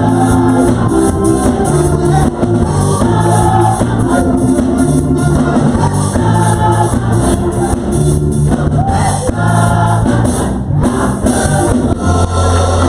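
Gospel music with a choir singing over instrumental accompaniment, loud and continuous.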